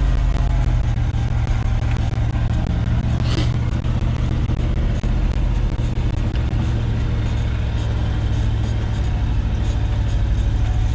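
1973 Ford F-250's 360 V8 engine running steadily as the truck drives along, a deep, even drone.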